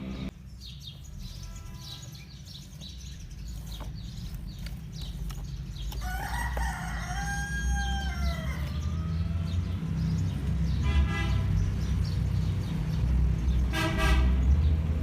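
A rooster crowing: one long call that rises, holds and falls, starting about six seconds in, with shorter calls near the end. Under it runs a steady low rumble that grows louder.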